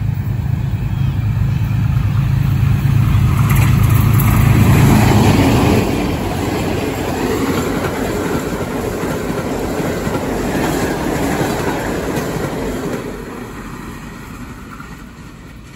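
Diesel passenger express locomotive approaching and passing at high speed, its engine loudest about five seconds in. The coaches then rush by with the steady noise of wheels on rails, which fades away over the last few seconds as the train recedes.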